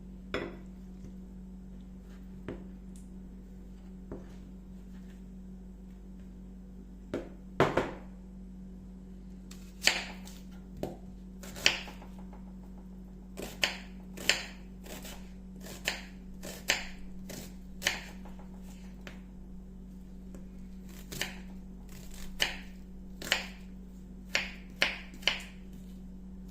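Irregular sharp clicks and taps of kitchen work, a few at first and then roughly one a second, over a steady low hum.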